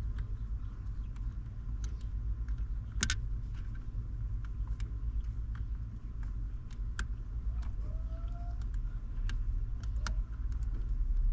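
Scattered light clicks and clinks over a steady low rumble, with one sharper click about three seconds in and a brief faint squeak around eight seconds in.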